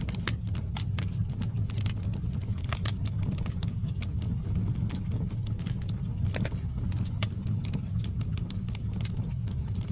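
Wood fire burning in a fireplace: a steady low roar of flames with frequent irregular crackles and pops from the burning logs.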